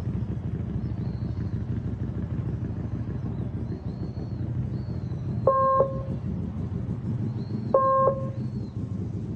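Small motorcycle engine running steadily at low speed. Two short beeps, about two seconds apart, sound past the middle.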